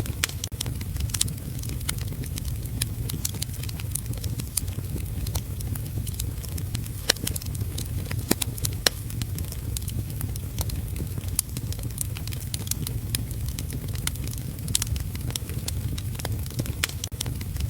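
Crackling wood fire: frequent sharp pops and snaps over a steady low rumble, mixed with steady rain.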